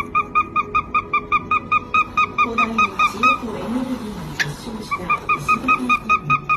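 A bird giving rapid, evenly spaced short honking calls, about seven a second, at one steady pitch, pausing for a second or so midway before going on.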